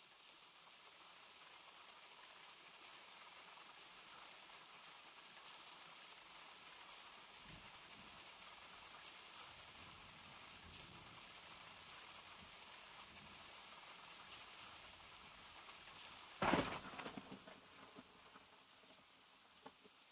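Steady rain falling, with a faint low rumble of distant thunder partway through. About three quarters of the way in, a sudden loud crack of thunder dies away over a couple of seconds.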